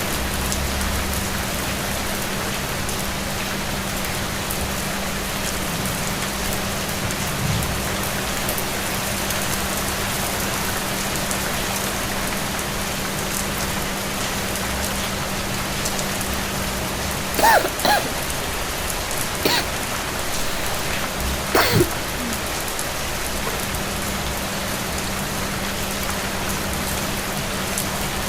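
Steady rain falling, an even hiss throughout. A few brief, louder pitched sounds stand out between about 17 and 22 seconds in.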